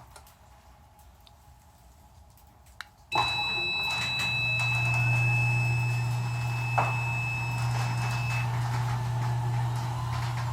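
Ryobi 2 HP belt-drive garage door opener starting up about three seconds in after a click, with a high steady beep tone, then its motor running with a steady low hum as it drives the door along the rail. There is a single knock partway through.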